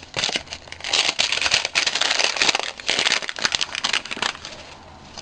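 A small gift-wrapped package being unwrapped by hand: a run of irregular crinkling and tearing of its wrapping, which dies down about four and a half seconds in.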